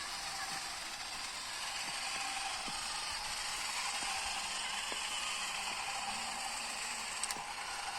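Small electric motor and gearbox of a remote-control model tractor whirring steadily under load, with a few faint clicks near the end.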